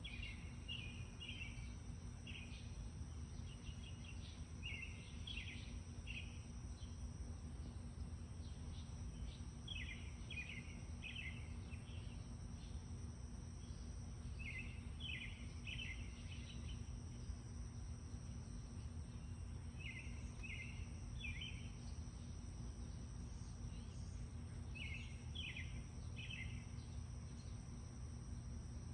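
A songbird singing short phrases of three or four quick chirps, repeated about every five seconds, over a steady low outdoor rumble.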